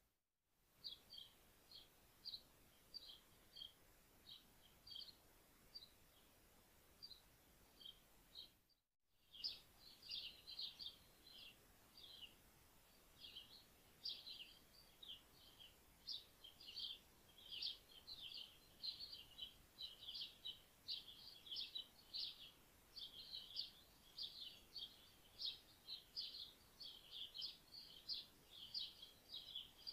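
Small birds chirping faintly: short high chirps in quick runs, sparse at first and much busier from about nine seconds in. The sound drops out completely for a moment near the start and again about nine seconds in.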